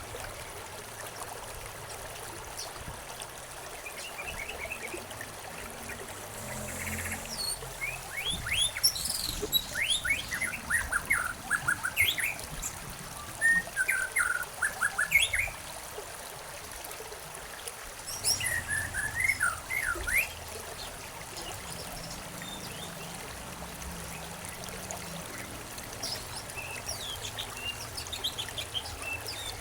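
Songbirds chirping in quick runs of rapid, sweeping notes, bunched into a long busy stretch in the first half, a shorter burst after it, and faint calls near the end, over the steady trickle of a stream.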